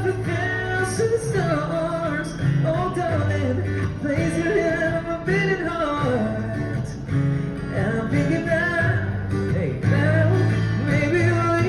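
Live music: guitar accompaniment with steady bass notes under a gliding melody line, sung or hummed without clear words.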